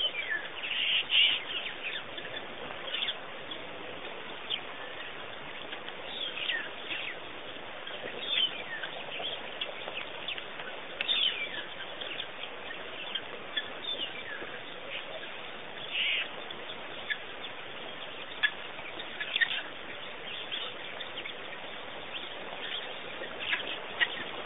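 Wild birds chirping and calling, in short scattered notes of a few at a time, over a steady background hiss.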